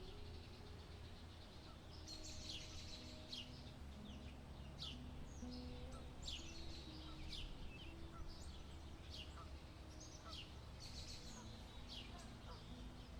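Small birds chirping: short, quick, downward-sweeping calls repeated every half second to a second, over a steady low rumble.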